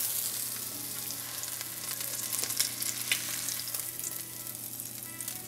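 Breaded chicken cutlets sizzling and crackling in hot olive oil in a non-stick frying pan, with two sharp clicks near the middle.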